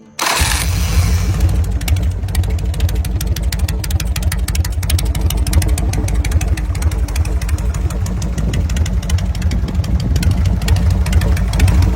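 Harley-Davidson 1200 Evolution V-twin on a hardtail Sportster chopper, running steadily with a deep exhaust beat. It cuts in suddenly right at the start.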